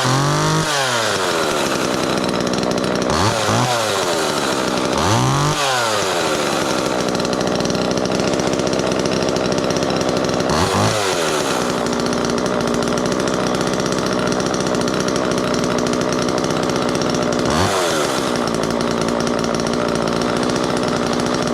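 Two-stroke Homelite XL chainsaw running just after a first-pull cold start. It idles steadily, and the throttle is blipped several times, each blip a quick rise and fall in revs.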